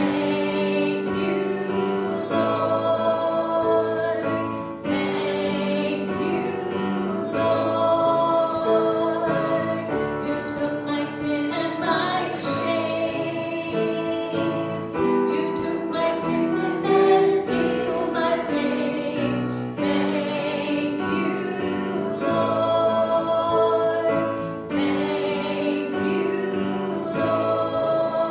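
Worship singing in a church service: voices singing a hymn with instrumental accompaniment, long held notes in phrases of a few seconds.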